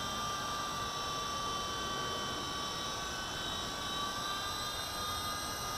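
V913 RC helicopter's small electric motor and spinning rotor blades whining steadily in flight.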